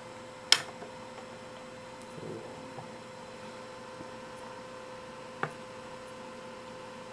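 Steady electrical hum, with a sharp click about half a second in and a smaller click later, as the cover is taken off the model locomotive's smokestack.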